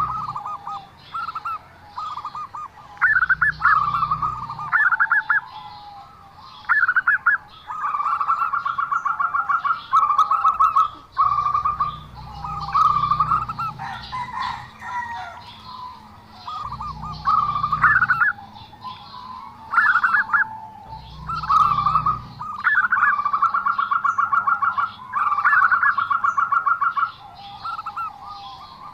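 Zebra dove (perkutut) cooing in repeated rolling phrases of rapid pulsed notes, each phrase often opening with a rising note and lasting one to two seconds, with short pauses between. Its voice is unusual for the species. Small birds chirp faintly behind it.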